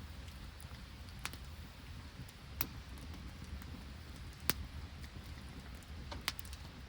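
Wood campfire crackling: a few sharp pops spaced a second or two apart, the loudest near the middle, over a steady low hiss and rumble.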